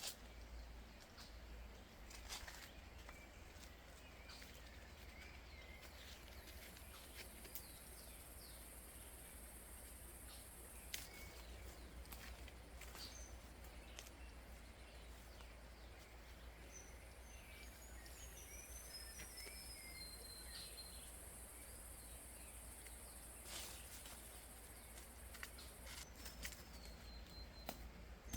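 Faint forest ambience. An insect drones high and steady twice, for several seconds each time, and a bird gives a few short whistling calls, once near the start and again past the middle. Scattered soft clicks and rustles come through over a low rumble.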